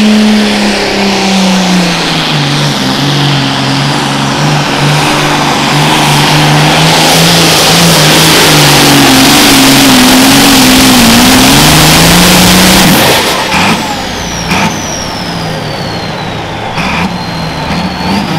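Diesel super farm pulling tractor at full throttle pulling the sled. The engine note sags as it bogs under load, then climbs again before dropping off abruptly about thirteen seconds in. A high turbo whine then winds down.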